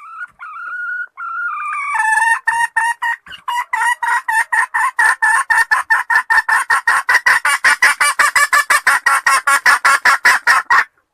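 Junglefowl lure call: a short wavering note, then from about two seconds in a fast, even run of repeated loud notes, about five or six a second, that stops abruptly near the end.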